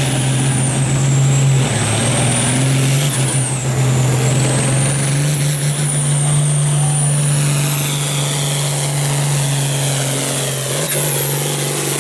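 Turbocharged farm tractor diesel engine working flat out under heavy load, pulling a weight-transfer sled, with a high turbo whistle that wavers down and up and then holds high in the second half.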